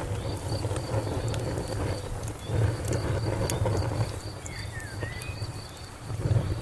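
Outdoor fire crackling with occasional sharp pops over a low rumble, while a cricket chirps steadily in a fast, even rhythm. A bird gives a short chirp about two-thirds of the way through.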